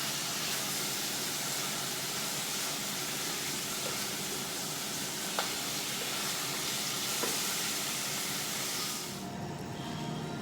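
Food sizzling in a hot pan: a steady frying hiss that stops about nine seconds in.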